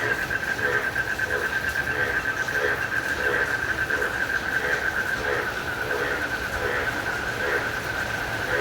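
Night chorus of frogs and crickets in rain. A steady high cricket trill runs under a frog calling in a regular rhythm, about three calls every two seconds, over an even hiss of rain.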